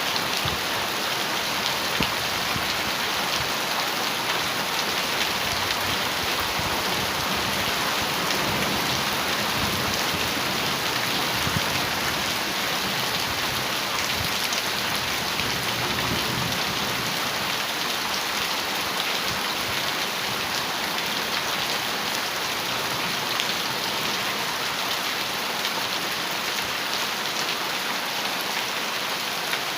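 Heavy rain drumming steadily on a metal roof, a dense patter of drops hitting the sheet metal without let-up.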